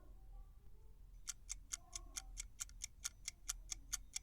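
Quiz countdown-timer sound effect: a clock ticking quickly and evenly, about five ticks a second, starting about a second in.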